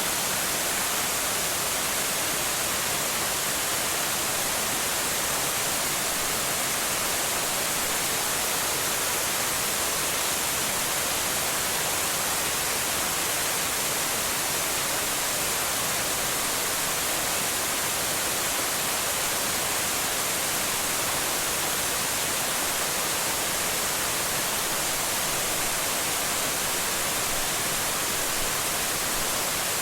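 Shiraito Falls waterfall: an even, unbroken rush of falling water, bright and hissing, with no change in level.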